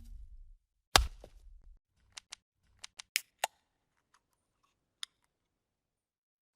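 Editing transition sound effect: a sharp hit about a second in that dies away quickly, followed by a run of short, sharp clicks and one last click near five seconds in.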